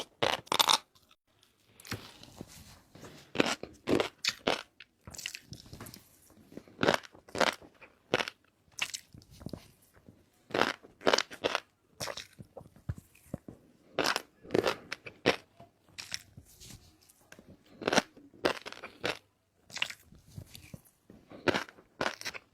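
Close-up eating sounds: a person biting and chewing food with repeated crisp crunches, coming irregularly about once or twice a second with short quiet gaps between.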